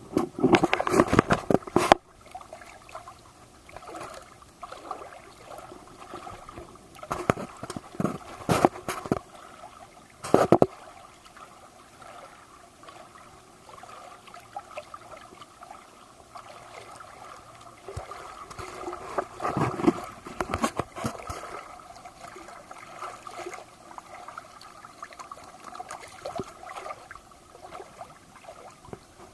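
Water splashing and gurgling in irregular bursts over a steady faint background. The bursts are loudest at the very start and again about twenty seconds in.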